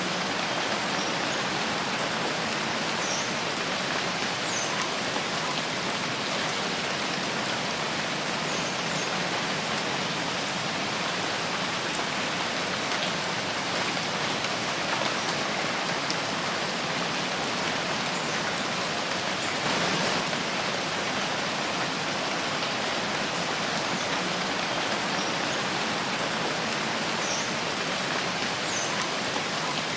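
Steady rain falling in a forest, an even, unbroken hiss of raindrops.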